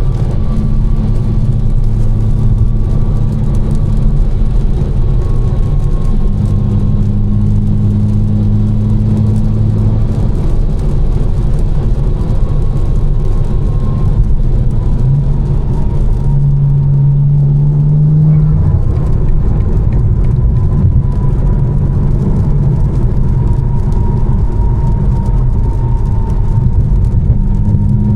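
Tuned BMW M4's twin-turbo inline-six droning at a steady cruise, its pitch stepping a few times with changes in speed, over a constant wash of road and tyre noise and a faint, slowly falling whine.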